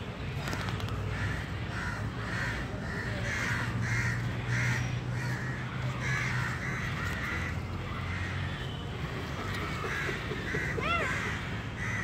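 Birds calling: a rapid series of short calls, about three a second, for several seconds, then scattered calls and a single short call that rises and falls near the end, over a steady low hum.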